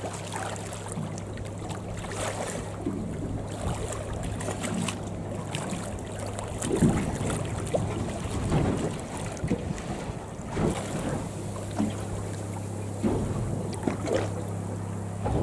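Boat motor idling with a steady low hum, with irregular splashes and slaps of water against the hull.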